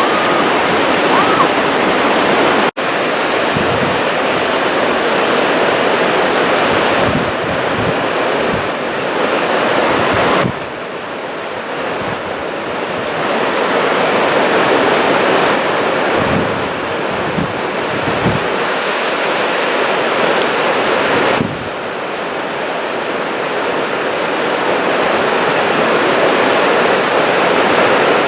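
Loud, steady rush of the Yellowstone River's water around a raft. The sound drops abruptly in level a few times.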